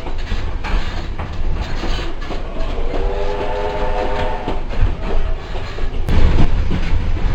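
Vintage steam train carriage running along the track with a steady low rumble and clacking over the rail joints. About three seconds in, the steam locomotive's whistle sounds once for nearly two seconds.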